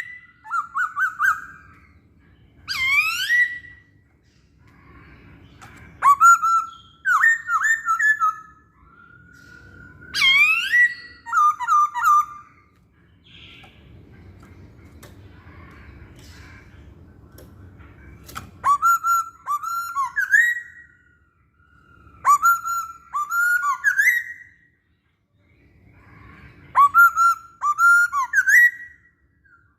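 A poksay Hongkong laughingthrush singing loud, clear whistled phrases: quick rising sweeps and fast runs of slurred notes, a burst every two to four seconds with short pauses between.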